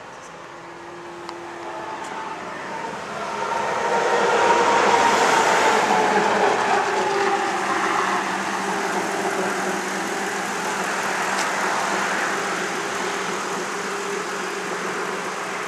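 Motor vehicle running past, engine and road noise swelling about four seconds in and then holding steady.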